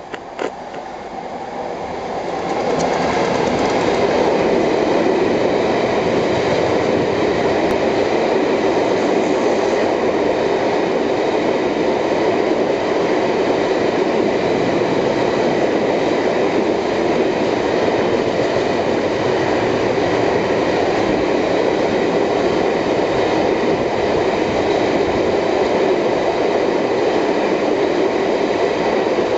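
A Class 59 diesel locomotive passing with a long, heavy train of loaded stone wagons. The sound builds over the first three seconds, then holds as a steady rumble of wagon wheels running over the rails.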